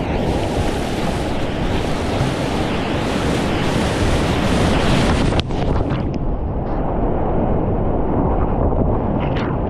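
Whitewater rapids rushing loudly close to a GoPro microphone, with wind buffeting the mic. About five and a half seconds in the high hiss drops away abruptly, with a few short sharp sounds just after and again near the end.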